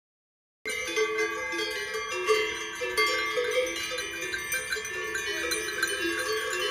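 Many cowbells on a herd of walking cattle clanging together, a dense jangle of ringing at several different pitches that starts suddenly about half a second in.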